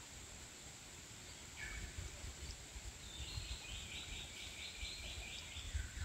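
Birds calling in the Australian bush: a few short chirps and, in the middle, a rapid run of about eight notes. Under them are a steady high insect drone and an uneven low rumbling.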